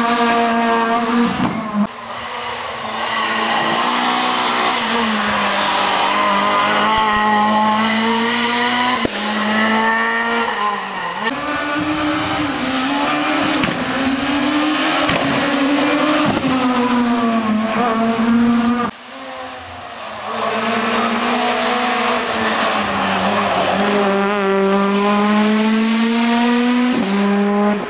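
Rally cars at speed on a closed special stage. The engines rev up and fall back through gear changes as the cars pass. The sound dies down briefly about two-thirds through before another engine builds up again.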